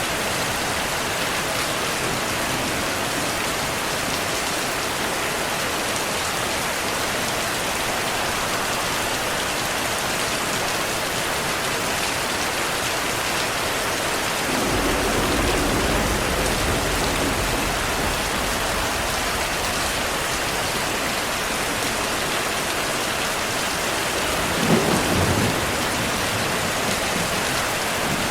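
Heavy rain falling in a steady hiss. Low thunder rumbles in about halfway through, and a sharper thunderclap comes near the end.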